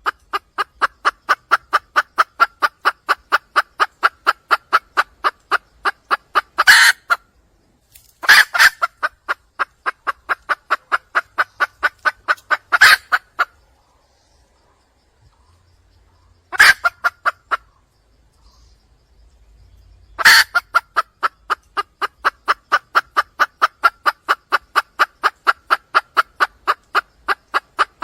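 Wild junglefowl hen calling for a mate: long runs of rapid, evenly spaced clucking notes, about five a second, each run opening with a louder note. There are four runs with short pauses between them, the longest near the end.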